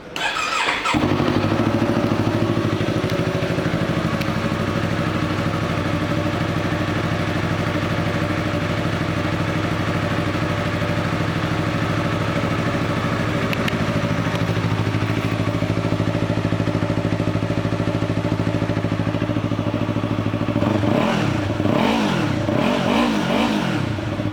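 2015 Yamaha YZF-R3's 321 cc parallel-twin engine, breathing through an aftermarket Akrapovic exhaust, is started about a second in and idles steadily. Near the end it is revved up and back down several times.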